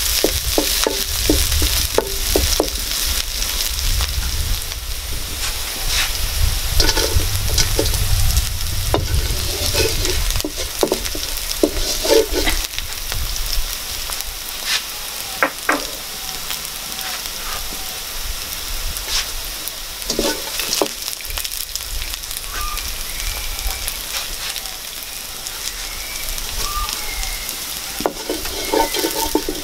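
Sliced green chillies and garlic frying in hot oil in a non-stick wok, sizzling steadily, with a wooden spatula scraping and knocking against the pan now and then as it stirs.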